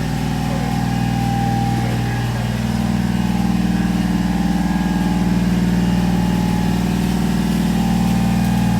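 A mini fire truck's small engine running at idle; about two and a half seconds in it picks up slightly and holds a little higher and louder.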